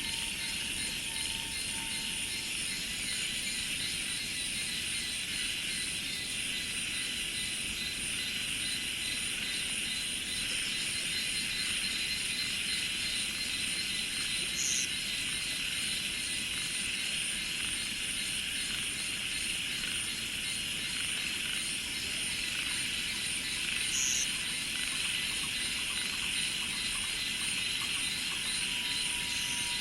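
A steady chorus of insects such as cicadas and crickets, a high, even drone with a faint pulsing shimmer above it. A brief high chirp cuts through twice.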